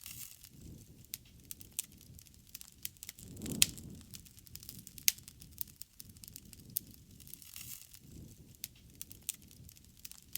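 Wood fire crackling, with frequent sharp pops and snaps over a low rushing of flames that swells twice.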